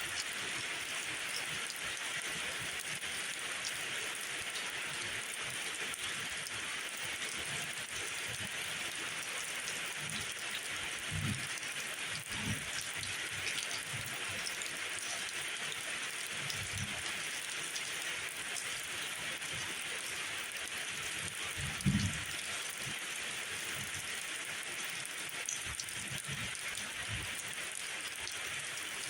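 Steady rainfall, an even hiss of drops, with a few soft low thuds scattered through it, the strongest about three quarters of the way through.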